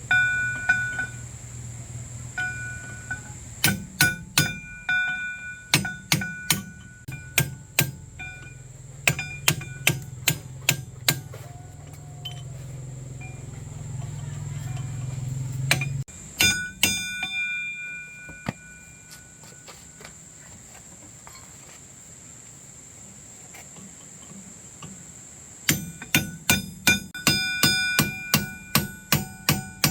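Hammer blows on steel, each strike ringing with a clear metallic tone, in bursts of several quick strikes two or three a second. A low hum underneath stops about halfway.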